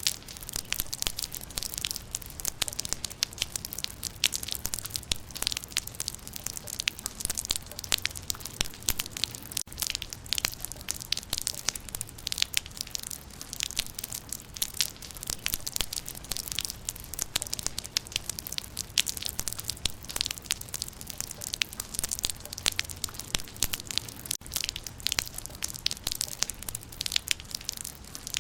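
Rain falling on leaves: a dense, uneven run of small sharp ticks over a steady hiss.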